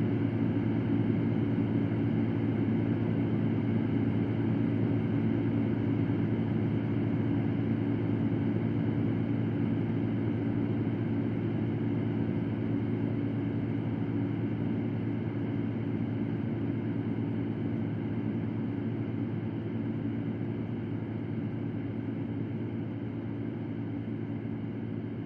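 Electric fan running steadily: a continuous whooshing air noise with a low motor hum, easing slightly quieter toward the end.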